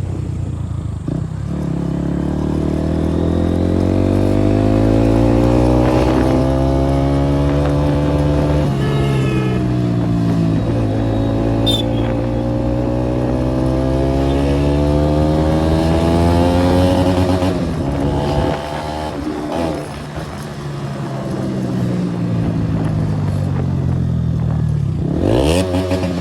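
KTM Duke 390 single-cylinder engine with a modified exhaust, ridden under way. The revs climb slowly, drop about nine seconds in, climb again, drop once more around eighteen seconds, and rise and fall quickly in a short blip near the end.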